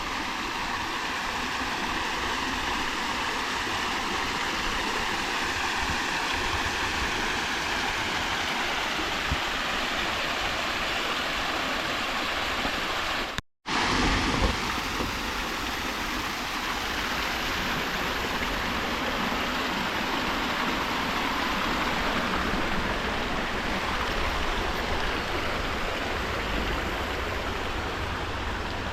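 Shallow creek water babbling and rushing steadily over rocks. The sound cuts out for a moment about halfway through.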